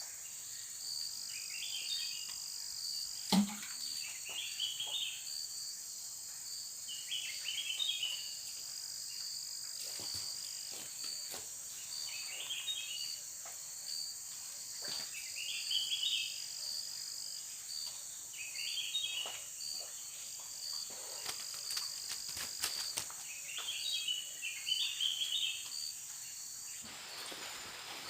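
Steady high-pitched drone of insects with a fast pulsing chirp beneath it, and a short chirping call repeated every two to three seconds. Faint scattered clicks, and one sharp knock about three seconds in.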